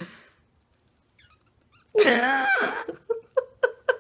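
A person's wordless vocal sound: a drawn-out, wavering cry about halfway in, then a quick run of short, separate sounds near the end.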